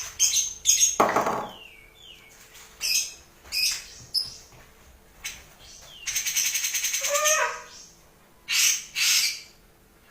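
Grey-cheeked bulbul (cucak jenggot) giving harsh, rasping call bursts in tight, rapid runs separated by short pauses, one longer rattling run with a few falling notes.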